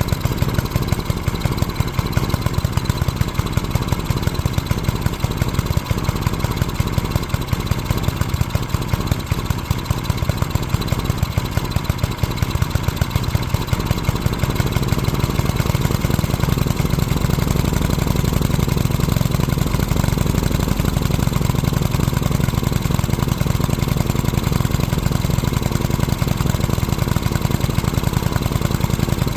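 Small Briggs & Stratton engine on a garden tiller running steadily at idle, with a rapid, even firing pulse; its sound grows a little fuller about halfway through.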